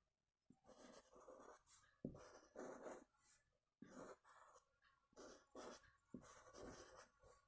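Faint, repeated scratchy strokes, each about half a second long, of a kolam being drawn by hand on the floor.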